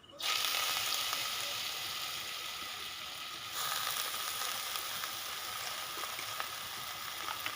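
Diced potatoes frying in hot oil in a kadai: a sizzle that starts suddenly as they go in, with a few faint crackles, growing louder about three and a half seconds in.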